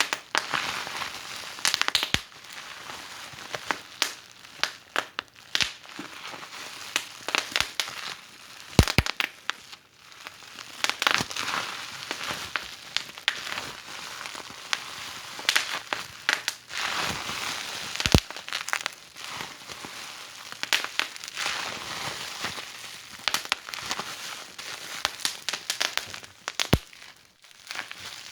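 Wood fire in a fireplace crackling: irregular snaps and pops over a soft hiss, with a few louder pops along the way.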